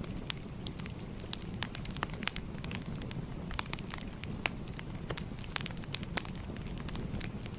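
Wood fire crackling: a steady low rumble of flame with many sharp, irregular pops and snaps, several a second.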